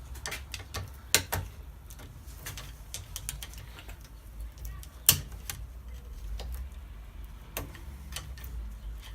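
Irregular small metallic clicks and taps of metal parts and hand tools being handled. The sharpest knocks come about a second in and again about five seconds in.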